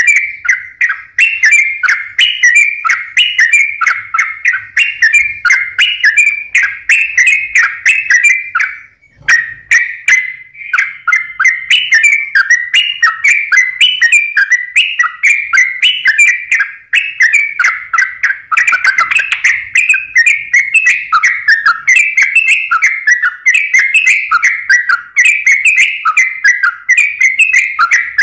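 Yellow-vented bulbul (trucukan) singing nonstop: loud, rapid, bubbly phrases repeated over and over, with a brief break about nine seconds in.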